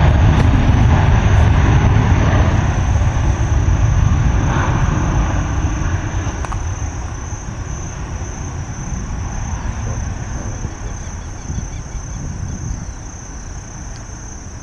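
Airbus A319 jet engines roaring at takeoff power, fading steadily as the airliner rolls away down the runway. Crickets chirp faintly as the roar dies down near the end.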